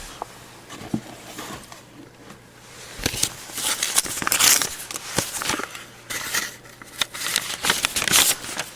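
Crinkling and rustling of mail packaging being handled and opened, with a few light clicks in the first second, then denser crinkling from about three seconds in.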